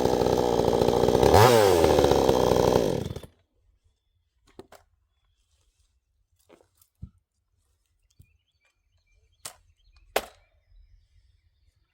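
A Vevor 62cc two-stroke gas chainsaw running at full throttle in a cut. Its engine pitch dips and climbs back once, then stops abruptly about three seconds in. A few faint knocks follow.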